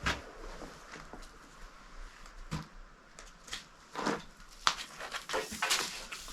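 Scattered sharp clicks and knocks of hand tools and metal parts being handled: a strong one at the start, then single knocks and a short cluster of clinks near the end.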